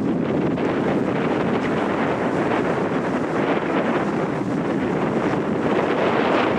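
Steady wind rushing over the microphone aboard a moving sightseeing boat, with the boat's running noise underneath.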